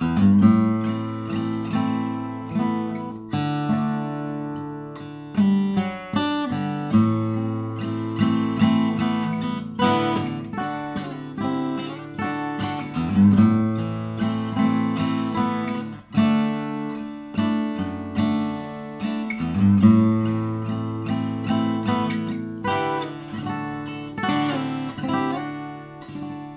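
Acoustic guitar played solo, picked notes and strummed chords over a repeating bass line, with a brief break about sixteen seconds in and a softer close near the end.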